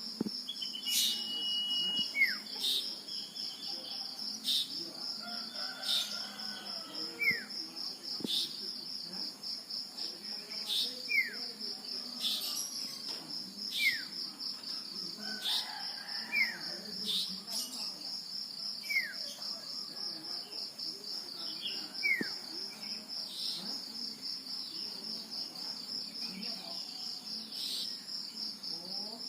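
Male common iora calling in the wild: a held whistle about a second in, then short, falling whistled notes repeated every second or two. Behind it runs a steady, fast-pulsing high insect trill, with sharp clicks every couple of seconds.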